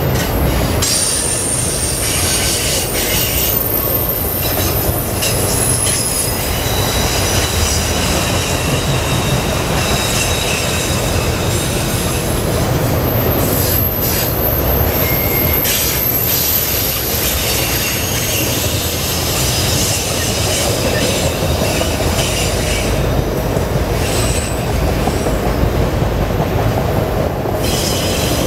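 Freight train of autorack cars rolling past close by on a curve: a steady noise of steel wheels running on the rail, with thin, high wheel squeals that come and go over it.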